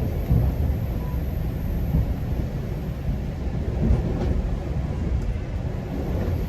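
GO Transit commuter train running along the track, a steady low rumble of wheels and rails.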